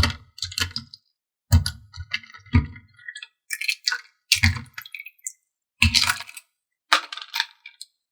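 Hard plastic toy pieces clicking and knocking as they are handled, in a string of short clatters with brief gaps between them.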